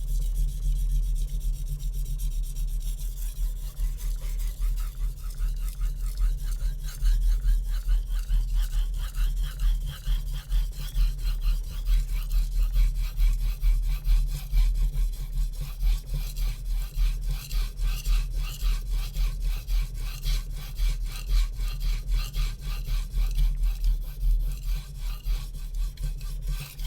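A HAP40 steel chef knife (about 66 HRC) is stroked back and forth across a Naniwa Super Stone whetstone without downward pressure, giving a continuous run of repeated scraping strokes over a steady low hum.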